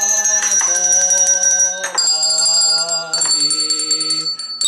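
A keyboard instrument playing a series of held chords, a new chord struck about every second and a bit.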